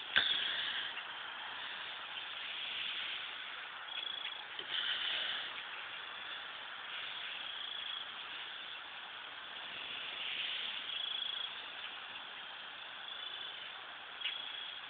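A large flock of birds calling together: a continuous high chatter with many short calls over a steady hiss. A sharp click sounds just after the start and again near the end.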